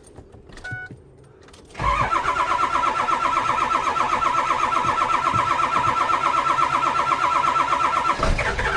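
Ford diesel truck engine cranking hard on its starter in deep cold, a fast even pulsing that keeps going without the engine catching, even after glow plugs and starting fluid. A brief beep comes just before the cranking starts.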